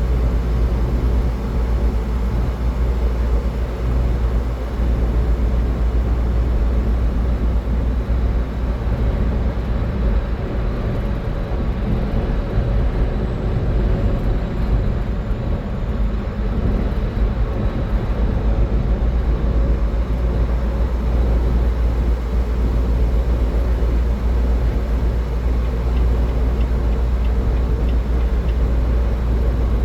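Car driving at highway speed: steady road and wind noise with a constant deep rumble.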